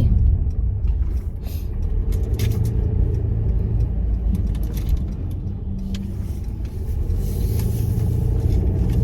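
Steady low road and engine rumble inside a moving car's cabin, with a few faint ticks in the first couple of seconds.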